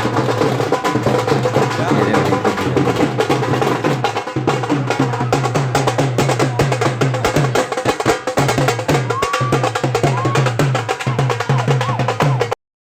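Loud baraat procession music driven by fast, dense drumming over a repeating bass beat, with a few short rising melodic notes near the end. The sound cuts out completely for a moment just before the end.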